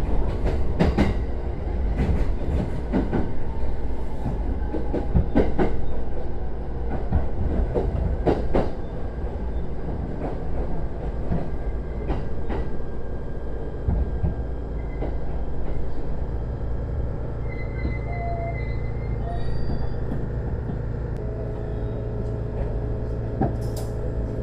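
JR East E129 series electric train running with a steady rumble, its wheels clicking over rail joints. The clicks come often at first and thin out in the second half, where steady humming tones come in.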